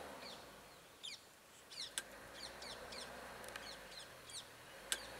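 Birds calling in a run of short, quick chirps, with two sharp clicks, one about two seconds in and one near the end.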